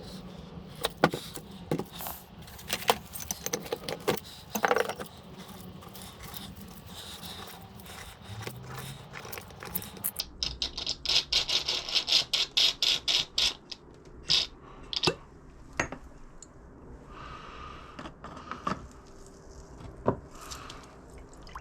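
Metal clinks, knocks and scrapes of hand tools working on the parts of a hydraulic jack being taken apart. About halfway through comes a quick run of repeated scraping strokes lasting about three seconds.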